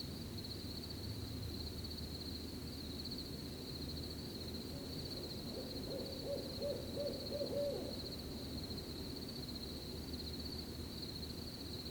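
Crickets chirping in a steady trill, with an owl hooting a quick run of about six short hoots a little past the middle, over a low steady background hush.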